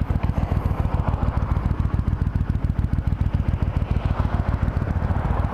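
Triumph Thunderbird Storm's parallel-twin engine idling, a steady, even throb of rapid low pulses, heard from the bike's own microphone.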